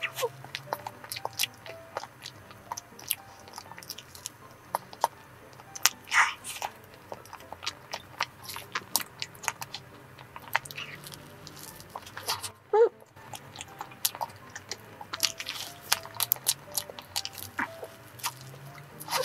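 Close-miked eating sounds of a soft cream sandwich, white bread filled with banana and chocolate cream, being bitten and chewed: many short wet smacks and mouth clicks. One louder mouth noise comes about two-thirds of the way through.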